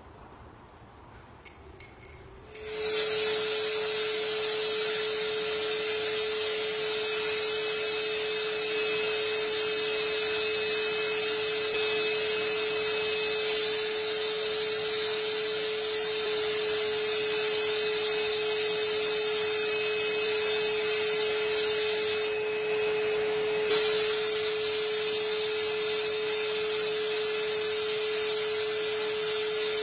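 A small machine starts up about three seconds in and runs steadily with a constant hum and a strong hiss. The hiss cuts out briefly about two-thirds of the way through.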